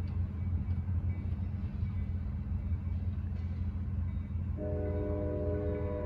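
Low, steady rumble of an ACE commuter train with its SC-44 diesel locomotive at a grade crossing. About four and a half seconds in, a sustained chord of several tones comes in over it.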